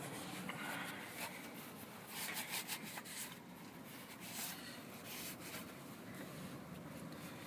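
Quiet rubbing and scraping with a few light clicks, a cluster about two to three seconds in: hands handling metal engine parts during teardown.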